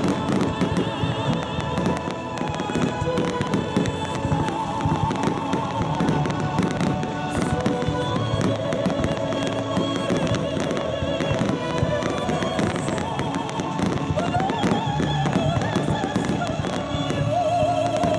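Fireworks display: aerial shells bursting with dense, rapid crackling and bangs in quick succession, over music playing throughout.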